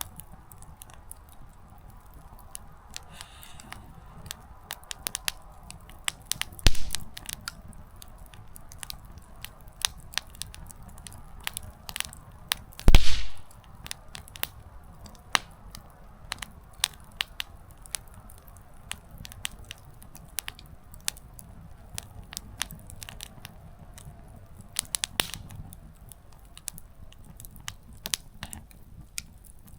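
Small wood campfire crackling: burning firewood gives off scattered sharp pops and ticks, with a louder pop about a quarter of the way in and the loudest, longest one near the middle.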